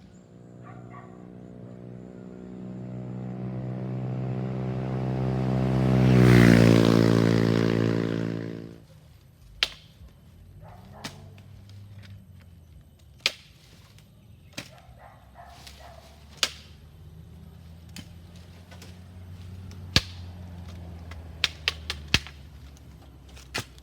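A motor vehicle drives past: its engine drone grows louder for about six seconds, peaks with tyre noise, then drops slightly in pitch and fades. After it, a scatter of sharp clicks and knocks.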